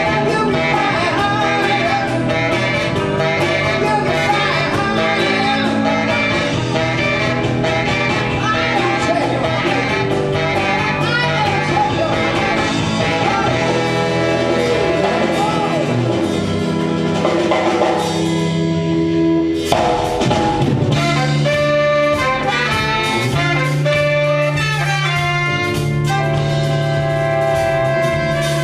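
Live band playing a bluesy, jazzy number with drum kit, horns and singing. About two-thirds through, the band drops to a held low note for a couple of seconds, then comes back in with a hit.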